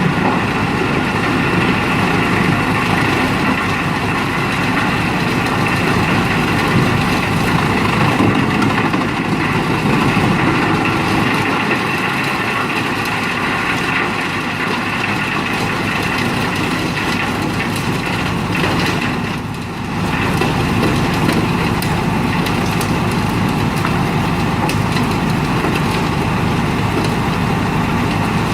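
Wood chipper's engine running steadily and loud, with a short dip in level about two thirds of the way through.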